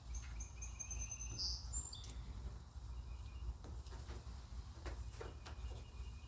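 A songbird singing in the background: a quick run of high chirping notes in the first couple of seconds, then fainter calls, over a steady low hum. A few faint clicks and taps come in around the middle.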